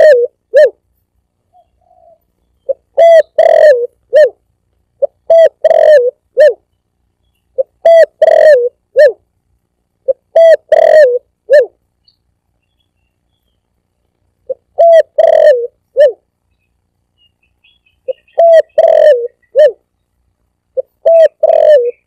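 Spotted dove (tekukur) cooing: phrases of several short, pitched coos, repeated about every two to three seconds, with one longer pause about halfway through.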